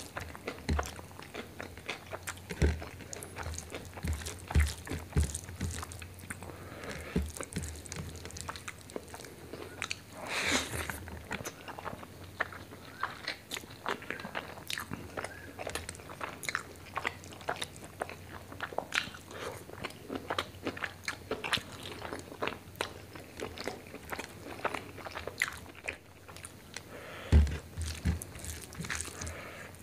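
Close-up chewing and crunching of mouthfuls of rice with chicken liver and gizzard curry eaten by hand, full of sharp crunches and wet mouth sounds. A single loud thump comes near the end.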